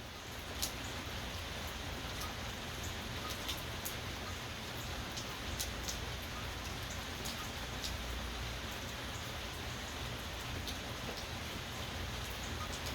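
Steady rain falling, a constant even hiss with individual drops ticking sharply close by, scattered irregularly a few times a second.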